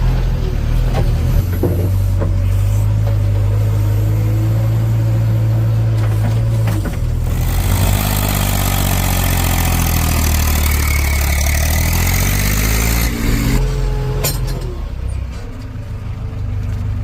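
Heavy diesel engine of a tractor or backhoe loader running hard with a steady low drone. In the middle a loud rushing noise joins it for several seconds, then falls away.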